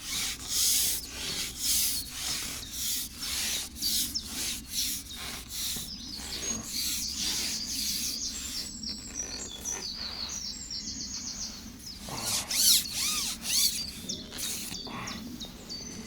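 A run of short, repeated rubbing or scraping strokes, then a songbird singing a rapid, high, repeated trill for a few seconds, with more chirps and rubbing near the end.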